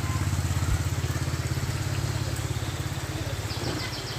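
A motorcycle engine running steadily at low revs, with a fast, even putter.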